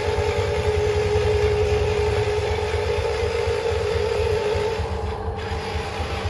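Huina 1573 RC dump truck's electric motor and gears whining steadily over a low rumble; the whine fades about four and a half seconds in.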